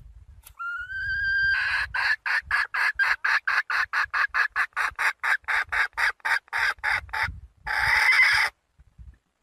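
A young red junglefowl hen calling to a rooster. A drawn-out rising note turns into a rapid run of clucks, about four to five a second for some five seconds, and a harsher, noisier call follows near the end.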